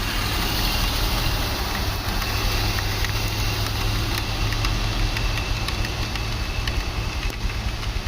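A heavy truck's diesel engine running steadily at low revs, under the steady hiss of heavy rain.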